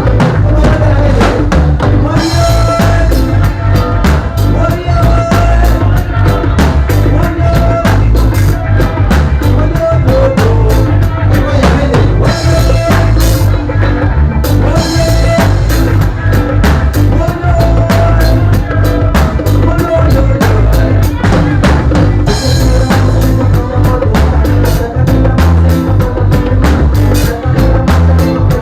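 Band music led by a drum kit, with bass drum, snare and rimshots keeping a steady beat under a bass line and a melody of held notes.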